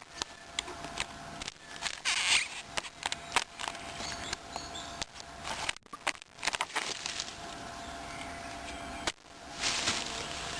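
Footsteps through dry leaf litter and twigs: irregular rustling and crackling with many sharp clicks.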